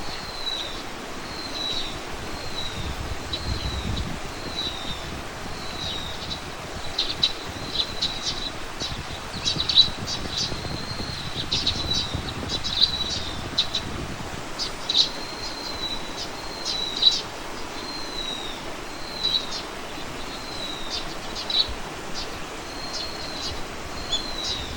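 Small birds calling: one short high note repeated about once a second, with quick sharp chips from other birds mixed in, busiest through the middle. A steady background hiss runs underneath.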